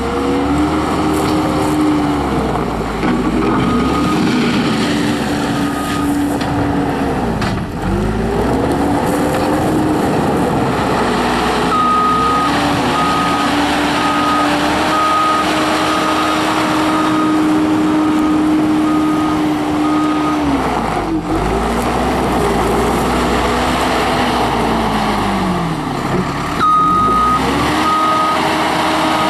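Case 450 skid steer loader's Cummins turbo diesel running under work, its pitch dropping and climbing back up several times as the machine is driven and loaded. The reversing alarm beeps in runs of steady, evenly spaced beeps whenever the loader backs up.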